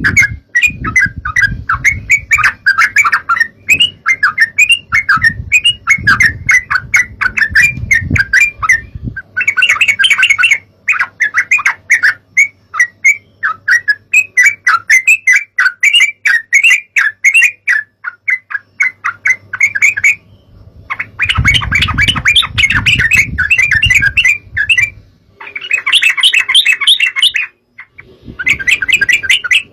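Yellow-vented bulbul (trucukan) song: rapid, bubbly chattering notes that run on with short breaks about twenty seconds in and again near the end, played as a lure call. A low rumble sits underneath in stretches.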